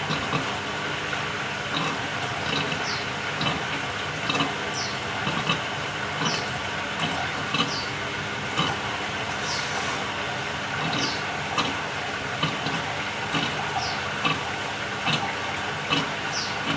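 Samsung 6.5 kg top-loading washing machine running a cold quick wash: a steady swishing of water with a regular surge and short high squeak about every second and a half.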